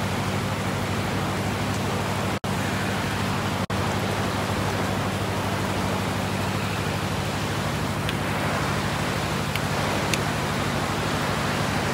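Steady rain pouring down in a continuous hiss, with a steady low hum beneath it. The sound cuts out briefly twice, about two and a half and three and a half seconds in.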